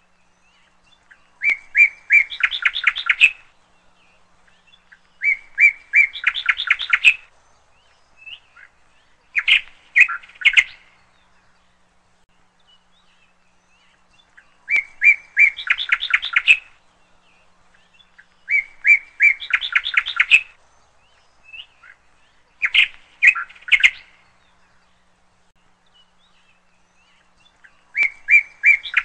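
A songbird singing a repeated phrase of a few clear whistled notes that run into a fast trill, each phrase one to two seconds long, coming every three to four seconds with quiet gaps in between.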